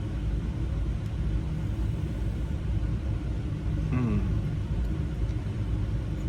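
A steady low rumble like a motor vehicle engine running, with a short falling tone about four seconds in.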